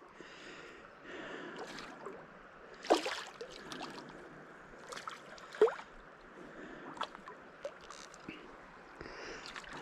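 Steady hiss of river water running over rock riffles, broken by a few short sharp splashes, the loudest about three seconds in and another near six seconds.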